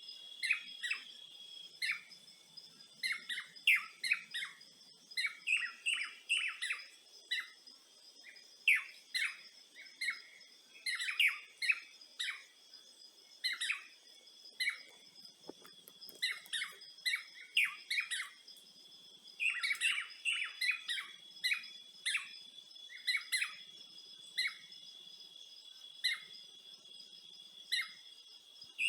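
Several birds chirping in quick, short calls, many overlapping, over a steady high-pitched drone.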